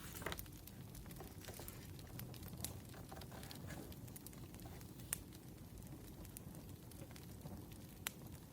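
Wood fire crackling: irregular sharp pops and snaps over a low steady rumble, with a couple of louder pops about five and eight seconds in.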